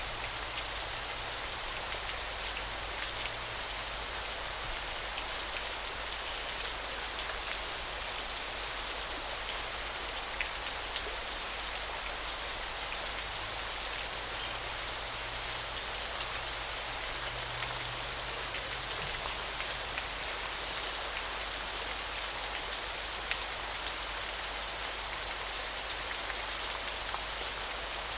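River water flowing with a steady rushing hiss and many small splashes and drips. A thin high-pitched buzz repeats in regular pulses with short gaps over it.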